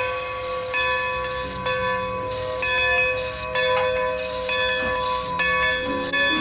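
Bells ringing: ringing tones of several different pitches, a new one struck about every second, over a steady low rumble.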